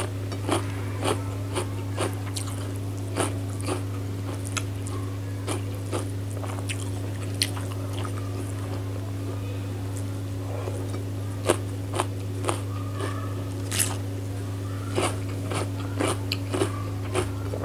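Close-miked chewing and biting of chicken curry with rice: an irregular string of sharp wet mouth clicks and crunches, over a steady low hum.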